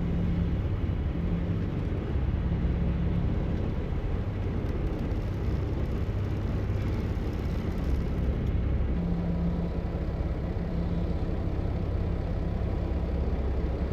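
Semi-truck diesel engine idling, a steady low rumble with a hum that swells and fades, heard from inside the cab.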